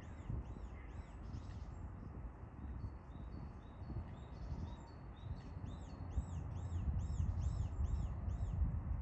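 A small songbird repeating a high, arched note about three times a second, in a run at the start and another longer run from about six seconds in, over a steady low rumble.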